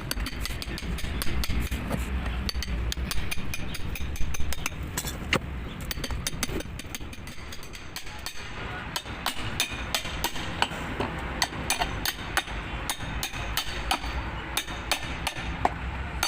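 Rapid, irregular light tapping and clinking of metal tools, several strikes a second, over a low steady rumble.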